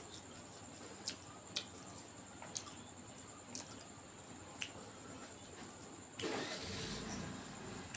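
Close-miked eating sounds: a handful of sharp, wet mouth clicks at irregular intervals, then about six seconds in a louder rushing noise, such as a slurp or a breath, lasting about a second and a half.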